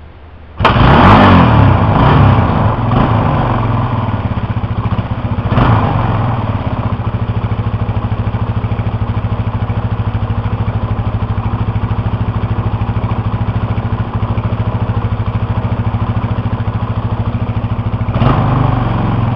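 1999 Honda XR200R's single-cylinder four-stroke engine catching under a kick start about a second in, without its decompressor, whose cable is snapped. It revs, then settles to a steady idle, with brief throttle blips near six seconds and near the end.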